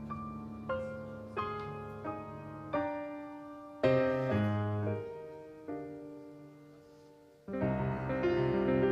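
Piano playing a slow intro: single notes struck about every 0.7 s, then two heavier chords left to ring and die away. A fuller, louder accompaniment comes in near the end.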